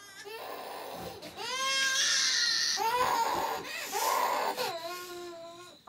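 A baby crying hard: a string of loud, high-pitched wails that rise and fall, each a little under a second long, getting louder about a second and a half in.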